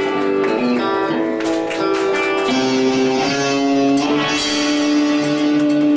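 A rock band playing an instrumental passage led by guitar, without vocals: held notes that change pitch every second or so.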